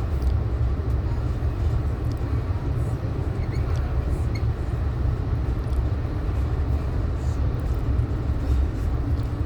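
Steady low rumble of an Amtrak passenger train under way, heard from inside the coach: wheels on the rails and the car's running noise, with a few faint ticks.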